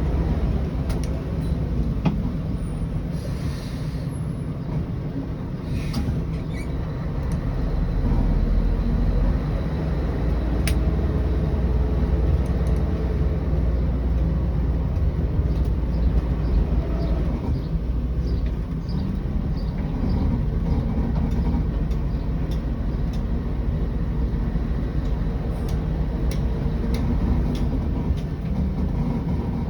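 Scania 113 bus under way, its diesel engine running steadily with a low drone, with scattered short clicks and rattles.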